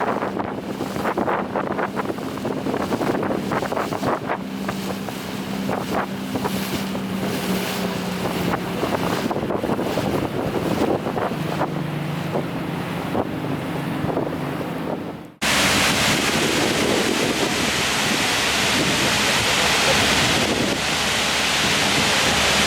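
A RIB boat's engine running with its steady hum shifting in pitch, under gusts of wind buffeting the microphone and water rushing past the hull. About fifteen seconds in it cuts abruptly to the steady, even rush of a waterfall.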